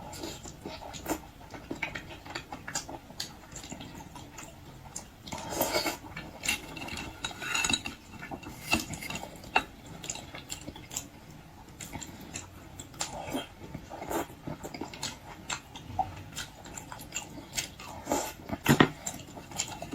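Close-miked eating sounds: a person chewing salmon with wet mouth smacks, and scattered short clicks and taps of utensils on dishes.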